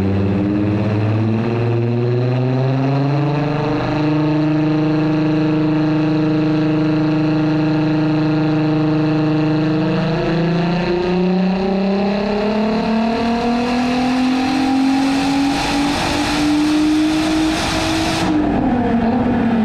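Turbocharged 3.0-litre VR6 engine of a Golf 4 R32 running under load on a chassis dyno during a power run at 1.2 bar wastegate-actuator boost. The revs climb, hold steady for several seconds, then rise steadily for about eight seconds as a turbo rush builds. Near the end the throttle snaps shut and the revs fall away.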